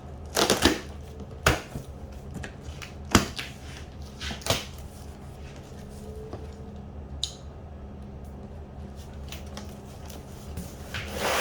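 A cardboard box and its packing being opened and handled: four sharp knocks and clatters in the first five seconds, then lighter clicks and rustles, over a steady low hum.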